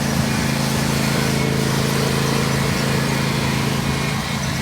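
Riding lawn mower engine running steadily at racing speed, holding an even pitch.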